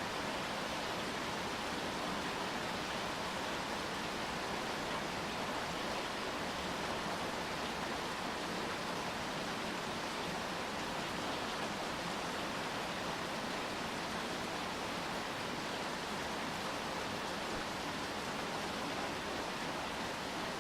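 Steady rain falling, an even hiss with no distinct drops or events.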